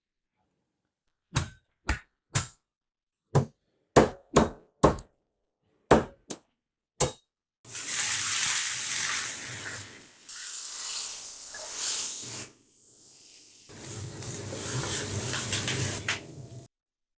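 Kitchen preparation sounds: about ten sharp separate knocks over the first seven seconds, then a loud steady hissing rush lasting about nine seconds that briefly drops away partway through.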